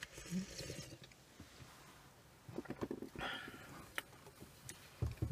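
Close-up mouth sounds of eating soft molasses buns: chewing with small wet clicks, and a sip of coffee from a paper cup just after the start.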